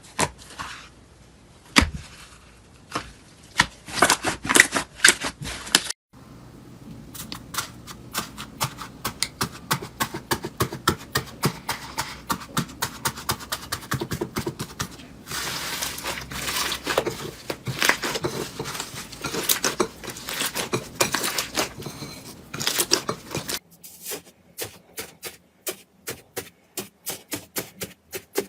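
Slime being squeezed and pressed by hand, giving rapid runs of small clicks, pops and crackles. The sound changes abruptly about six seconds in and again a few seconds before the end, as one clip gives way to another.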